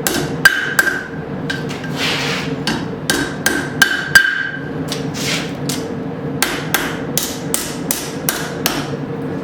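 A hand hammer strikes a hot steel horseshoe on an anvil to straighten it. The blows are irregular, about two to three a second, and several ring briefly. A steady hum runs underneath.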